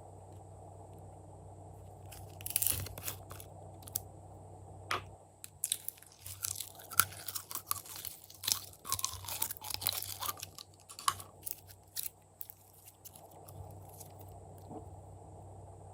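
Glossy slime being squished and worked by hand. It makes sticky clicks and crackling pops: a short burst about two seconds in, then a dense run through the middle, quieter near the end.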